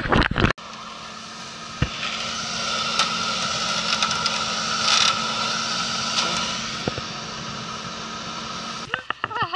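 A Suzuki SUV's engine running steadily with a constant hum while the vehicle is pulled out of deep snow on a taut line, with a few light knocks along the way.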